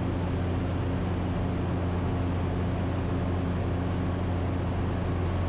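Ikarus C42 light aircraft's engine and propeller droning steadily in cruise, heard as a constant hum with hiss inside the cockpit.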